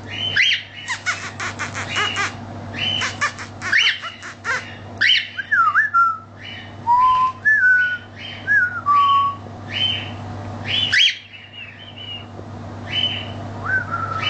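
Cockatiel chirping and whistling: short chirps, quick bursts of clicking chatter early on, and a string of short whistled notes sliding up and down in the middle.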